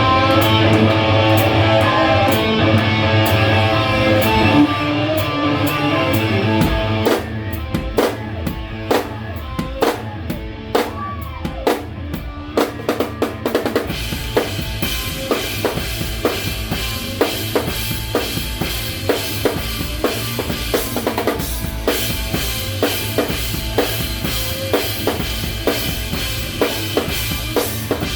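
Live rock band playing. For the first several seconds a held guitar-and-bass chord rings over the drums. Then a drum-led passage follows, with kick and snare carrying the beat and cymbals coming in about halfway through.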